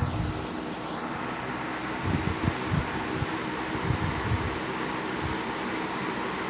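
Electric box fan running: a steady rush of air over a low motor hum, with irregular low rumbles of its airflow buffeting the microphone.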